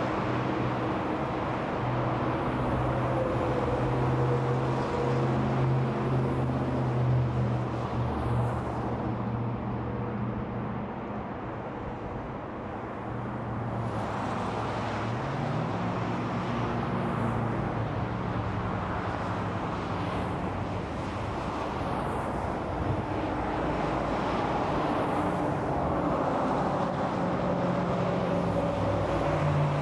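Steady stream of freeway traffic: vehicles passing continuously, with tyre noise and the low hum of engines, easing a little about a third of the way in before building again.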